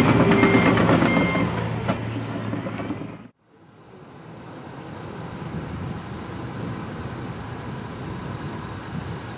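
Diesel engine of heavy construction equipment running, with its backup alarm beeping as it reverses. The sound cuts off abruptly about three seconds in, and after a moment of silence a quieter steady background noise fades up.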